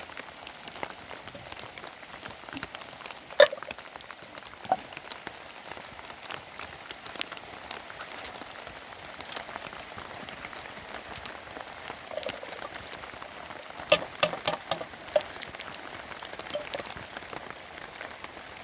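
Steady rain falling on a surface, with scattered sharp taps: one loud tap a few seconds in and a quick cluster of taps about two-thirds of the way through.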